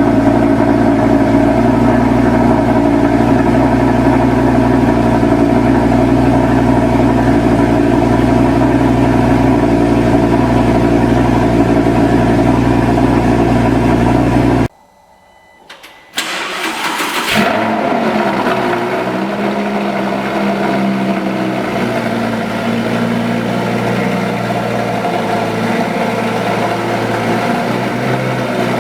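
Audi 5.2-litre V10 FSI engine running steadily at an even pitch. About halfway through the sound cuts off abruptly for a second and a half. Then a V10 fires up with a sudden loud burst and settles into a steady idle.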